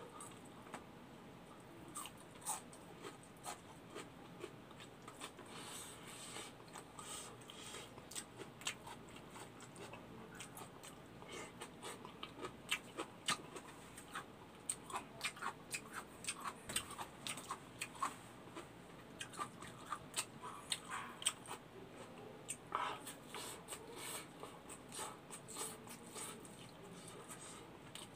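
Close-up eating sounds: chewing with many short wet smacks and clicks of the lips and mouth as rice and kimchi are eaten. They come sparsely at first and much more often from about halfway through.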